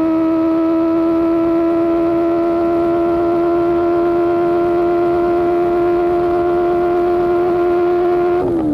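Sportbike engine through an Austin Racing GP1R exhaust, pulling at high revs as a steady high drone that slowly rises in pitch. A quick gear change near the end drops the pitch.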